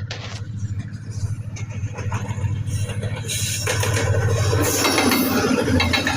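Diesel-hauled freight train approaching and passing: a steady low locomotive engine drone grows louder, and from about three seconds in the clatter and rumble of wheels and wagons takes over.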